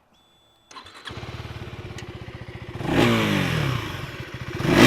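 KTM Duke 390's single-cylinder engine being started with the electric starter after a brief high whine. It catches within about half a second and idles with an even beat through its underbelly exhaust, then is blipped twice, each rev rising and falling back to idle.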